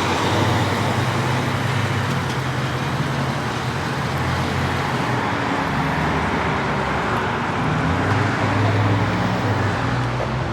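Car engine and road noise: a steady low engine drone under tyre and road rush, its pitch shifting slightly about eight seconds in.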